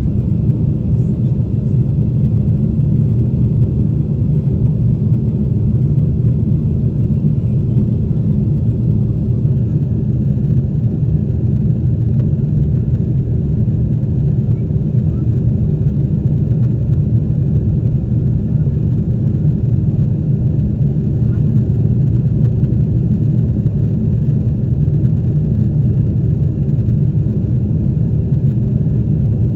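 Steady low rumble of a Boeing 747-8 airliner heard from inside the cabin: engine and airflow noise, even and unchanging throughout.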